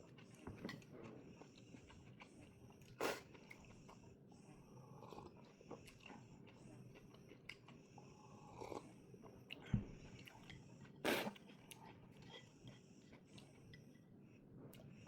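A person eating close to the microphone: soft chewing of a stir-fry of cabbage, carrots and egg, with scattered sharp clicks and knocks, the loudest three about 3, 10 and 11 seconds in.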